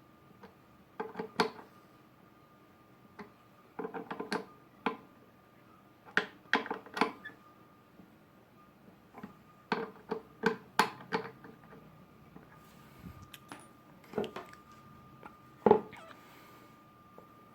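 Clusters of short metallic clinks and knocks, as of hand tools and metal planer parts being handled and set down, with a faint steady high tone underneath.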